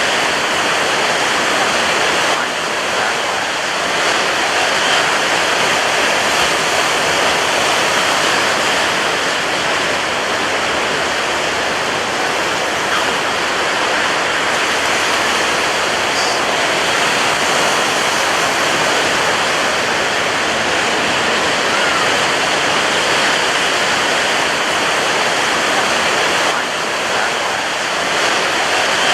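Surf breaking on a beach: a loud, dense, steady rush of white water with little rise and fall, dipping briefly near the start and again near the end.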